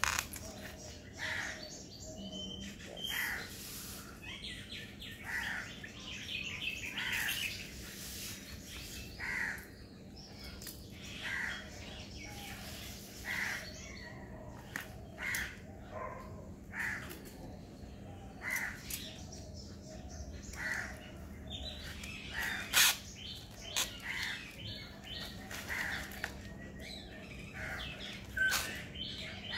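Birds calling, short calls repeating roughly once a second, with one sharp knock about two-thirds of the way through.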